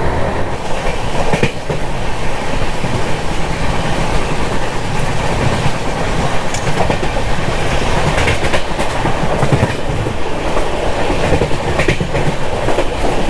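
Himsagar Express passenger train running at speed: the steady rumble of the coach, with the wheels now and then clicking over rail joints.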